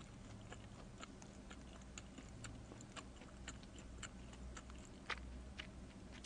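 Faint chewing of a mouthful of pizza close to the microphone: soft, irregular wet mouth clicks over a low steady hum.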